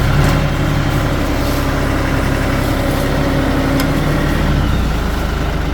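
Diesel engine of a Kioti NS5310 HST compact tractor running steadily while it works a hydraulic tree puller clamped on a holly tree. A steady hum rises over the engine sound for a couple of seconds in the middle.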